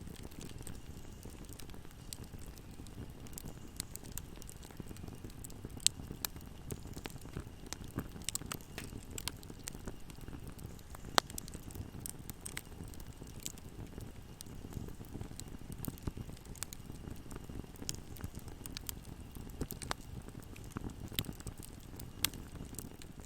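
Fire burning in a fireplace: a steady low rumble of flames with frequent small crackles and pops, and two sharper pops about six and eleven seconds in.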